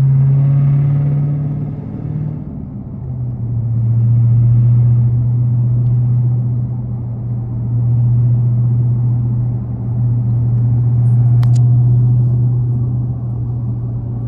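Dodge Hellcat's supercharged 6.2-litre V8 running at highway speed, a steady low drone. The note eases down in pitch about three seconds in, then holds with slow swells in loudness; a brief click sounds near the end.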